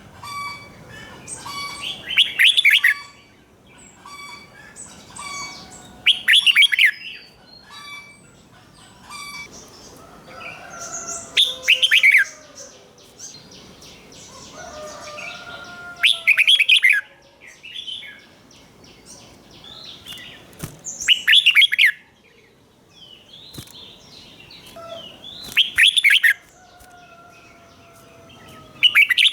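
Red-whiskered bulbul singing a loud, quick doubled phrase about every four to five seconds, seven times, with softer chirps and calls in between.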